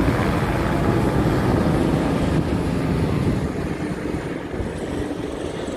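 Helicopter flying past, a steady rotor and engine rumble that fades slowly as it moves away, mixed with wind buffeting the microphone.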